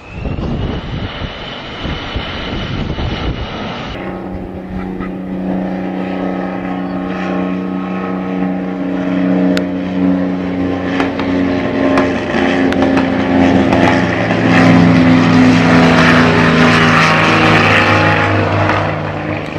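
Wind buffeting the microphone for the first few seconds, then the steady droning tone of an aircraft engine, which grows louder toward the end as the aircraft comes closer.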